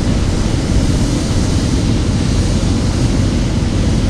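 Paint spray gun hissing steadily with compressed air as it lays a fog coat of water-based metallic base coat, over a low rumble.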